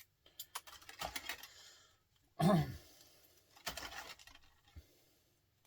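Light clicks, taps and rattles of small scrap parts and tools being handled, with one short louder sound about halfway through.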